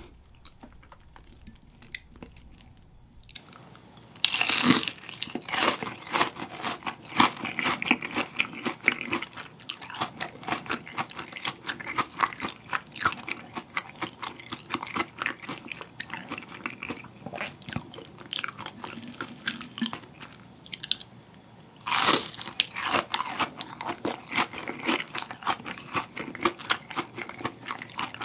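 Close-miked biting and chewing of a crispy deep-fried king prawn: a loud crunch about four seconds in, then steady crackly chewing, with a second loud crunching bite about two-thirds of the way through.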